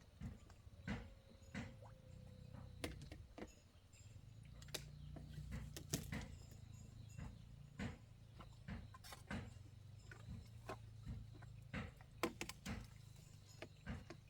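Irregular sharp knocks and clicks, a few each second, over a faint low steady hum.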